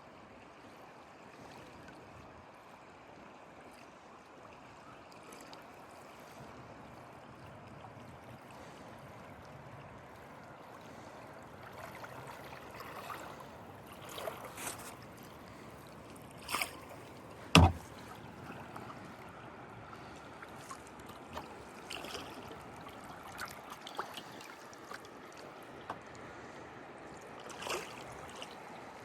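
Kayak on a fast-flowing river: a steady rush of moving water, with paddle splashes coming in from about halfway and a single sharp knock, the loudest sound, a little after the middle.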